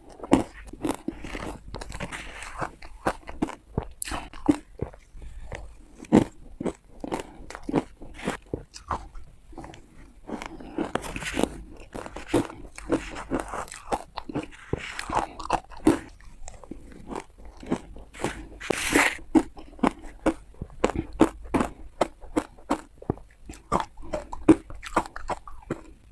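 A person biting into and crunching hard ice close to the microphone: a fast, irregular run of sharp, brittle crunches, with a louder cluster of bites about two-thirds of the way in.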